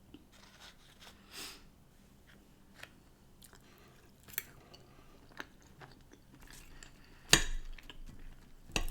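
A person chewing fish and chips close to the microphone, with small wet mouth clicks, and a louder, sharper click about seven seconds in and again near the end.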